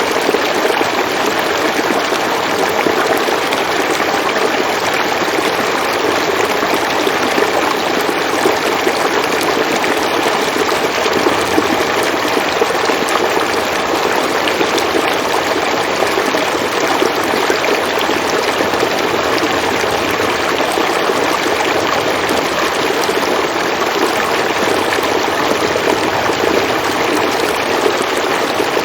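River water flowing over stones in a steady, even rush with fine splashing detail and no breaks.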